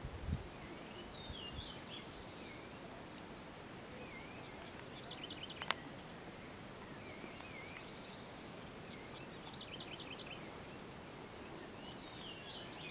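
Birds calling over a steady hiss: bursts of rapid high chirps and wavering whistled notes repeat every couple of seconds. A dull thump comes just after the start and a sharp click about halfway through.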